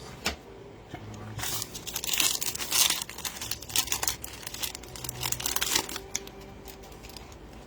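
Plastic trading-card pack wrapper being torn open and crinkled, a dense run of crackling from shortly after the start until about six seconds in.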